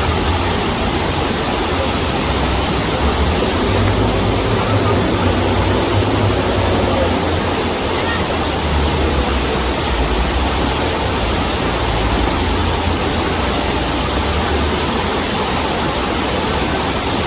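Waterfall: a steady, loud rush of falling water with a deep low rumble underneath.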